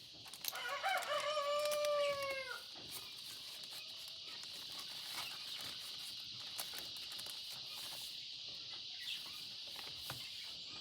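A rooster crows once, a single drawn-out call of about two seconds near the start that bends up and then holds its pitch. Faint taps and rustles of paper pages being turned follow over a steady high hiss.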